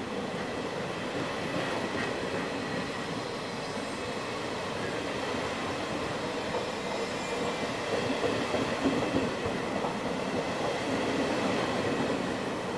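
MDVE and MDVC passenger coaches of a departing regional train rolling past at close range, picking up speed: a steady rumble of wheels on rail with a faint high whine, louder from about eight seconds in.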